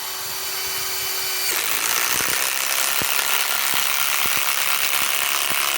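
Ryobi PSBIW25 cordless compact impact wrench driving a lag screw into wood: the motor spins up, and about one and a half seconds in the hammer mechanism starts impacting, a loud rapid rattle that keeps going as the screw is driven.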